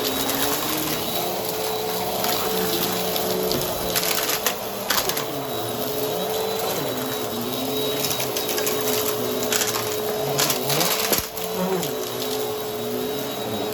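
Vacuum cleaner running with its brushroll on: a steady motor whine with a lower hum that wavers up and down in pitch, and scattered sharp crunching clicks as debris is picked up, busiest around the middle and again near the end.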